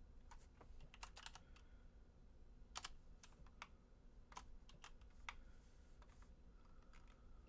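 Faint, irregular clicking of computer keyboard keys and mouse buttons: about a dozen sharp clicks, some in quick clusters, over a low steady hum.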